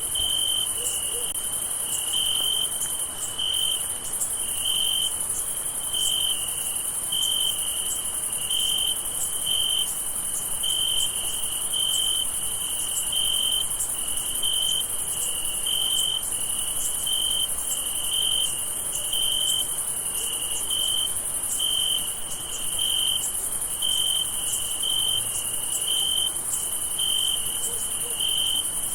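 Crickets singing at night: a steady, very high-pitched chorus, with a lower shrill chirp pulsing a little more than once a second.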